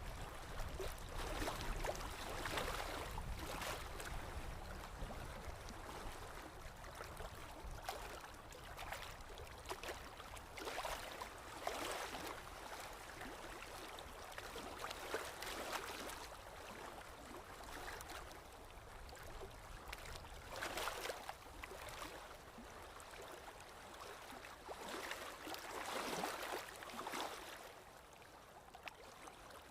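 Paintbrush working acrylic paint, a series of short scratchy scrubbing strokes at irregular intervals over a low steady hum.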